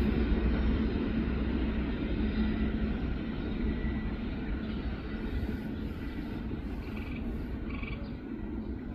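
Freight train rumbling as it moves away, its steady low rumble slowly fading. A couple of short chirps come near the end.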